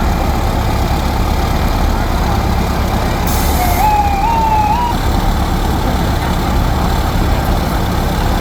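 Fire truck engines rumbling steadily as they pass in a parade. About three seconds in there is a short hiss, like an air brake, followed by a brief rising, siren-like tone lasting about a second.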